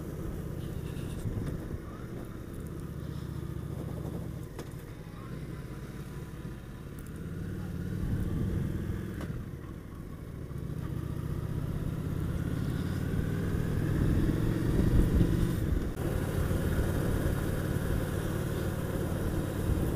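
Honda VT750 S motorcycle's V-twin engine running under way. It eases off around the middle, then pulls up steadily through the revs in the second half, with a short dip a few seconds before the end.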